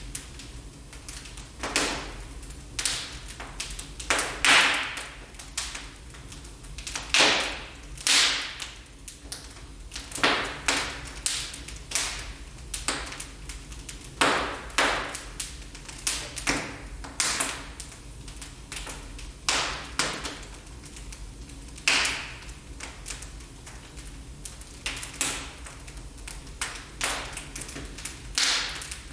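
Wood fire burning in a fireplace, crackling with irregular sharp pops and snaps, some followed by a brief hiss, over a faint steady low rumble.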